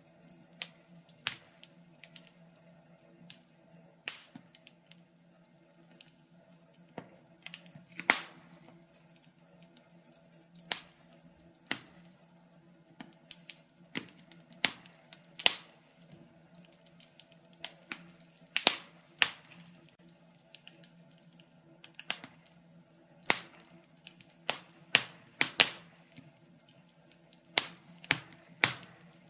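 Wood fire in a fireplace crackling: irregular sharp pops and snaps, several a second, over a faint steady low hum.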